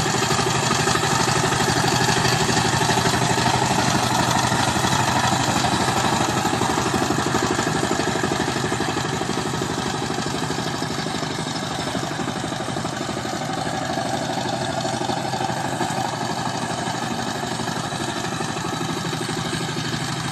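Farm tractor engine running steadily while working the rice field, a little louder over the first half.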